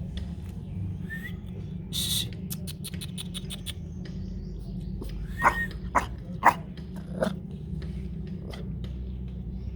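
Puppies whimpering and yelping, with four short, high cries between about five and seven seconds in. Scattered clicks and a steady low rumble run underneath.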